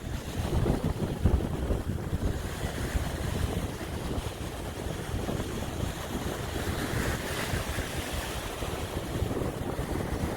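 Rough sea surf rushing on the shore, with wind buffeting the microphone in low rumbling gusts, strongest about a second in.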